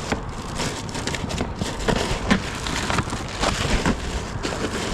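Wind rumbling on the microphone, with a run of small knocks, clicks and rustles as the fish and gear are handled on the kayak.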